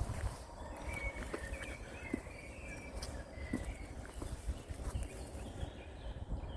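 Footsteps squelching and knocking on a muddy woodland path, with a bird chirping briefly a second or two in.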